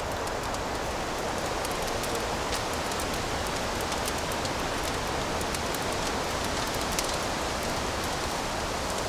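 Fireplace fire crackling: a steady hiss with many small, scattered pops and snaps.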